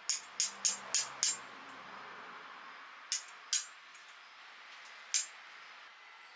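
Thin steel fire tongs clicking shut, metal on metal: five quick clicks about a third of a second apart, then two more about three seconds in and one after five seconds.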